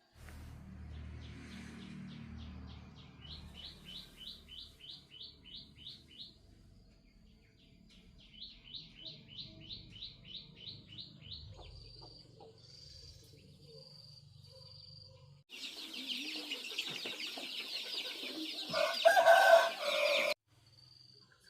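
Farmyard chickens, with a rooster crowing loudly near the end, cut off suddenly. Before it come two runs of rapid high-pitched chirping, about four a second, then a pulsed high call.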